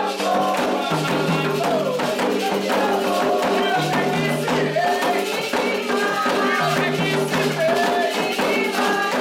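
Candomblé toque: atabaque hand drums and rattles keep a dense, steady rhythm under group singing, with held notes and gliding melodic lines.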